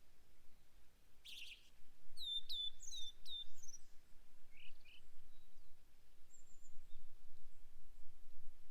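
Wild forest songbirds calling: a short harsh call about a second in, then a quick run of four sharp down-slurred whistled notes, a couple of lower short notes, and a faint thin high note later. A faint low wind rumble lies underneath.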